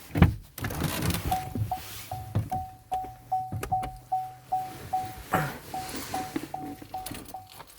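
A car's electronic warning chime beeping evenly, about two and a half beeps a second, over knocks and rustling.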